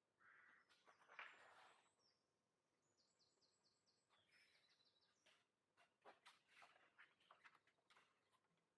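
Near silence, with faint outdoor bird calls: scattered chirps and a short run of quick repeated high notes about three seconds in.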